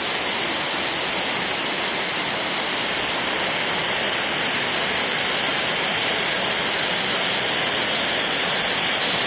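Steady rush of a fast river, with no change throughout.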